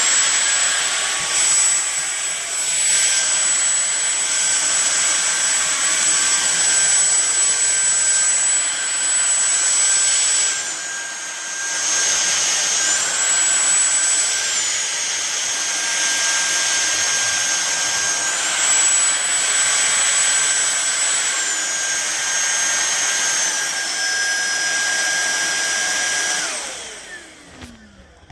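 Fieety cordless stick vacuum running with a loud, high-pitched motor whine. The pitch drops and rises again several times, then the motor switches off near the end and winds down with a falling whine.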